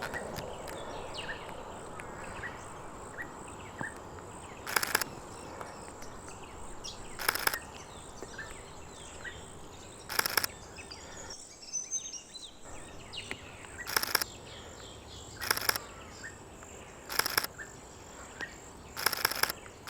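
Camera shutter of a Nikon Z50ii firing in about seven short bursts of rapid clicks, a couple of seconds apart, while photographing a thrush. Birds chirp and insects hum in the background.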